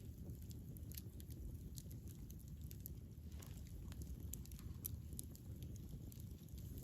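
Wood fire burning: scattered sharp crackles and pops, several a second, over a steady low rush.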